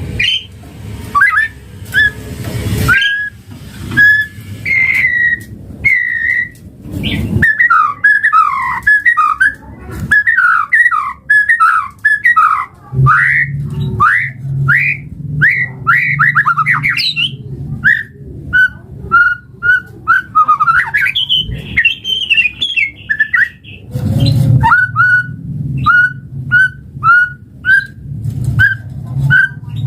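White-rumped shama singing: varied rich whistled phrases and quick runs of notes, then a series of short whistled notes repeated about once a second. A low hum sits underneath from about halfway.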